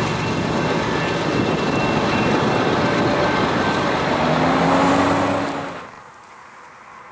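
A train passing close by: a loud, steady rumble of wheels on the rails. It cuts off abruptly about six seconds in, leaving only a faint background.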